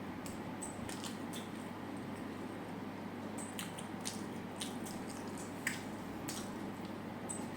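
A person chewing food close to the microphone: wet, squishy mouth sounds with scattered sharp clicks and smacks.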